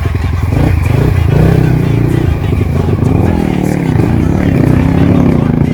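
Trail motorcycle engine revving up and down, its pitch rising and falling several times in the second half.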